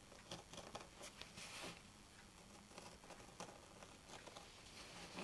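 Faint scratching and light clicks of a scalpel blade cutting through a felt seal ring, most of them in the first two seconds.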